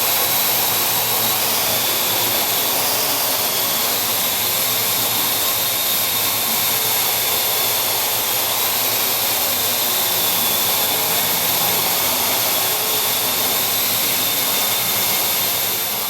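Parrot AR.Drone quadcopter's four electric motors and propellers running in flight, a steady whirring noise with a high, steady whine over it.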